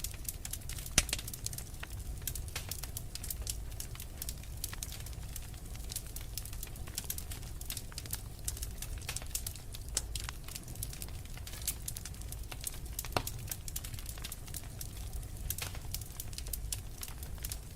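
Wood fire burning logs in a fireplace: steady crackling with irregular sharp pops, the loudest about a second in, over the low rumble of the flames.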